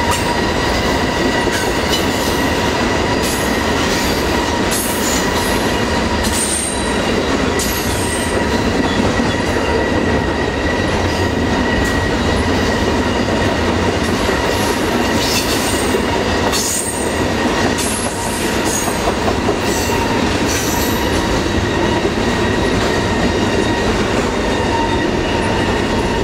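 Double-stack container well cars of a freight train rolling past: a steady loud rumble and rattle of steel wheels on the rails, with scattered clicks and clanks and a steady high-pitched ring.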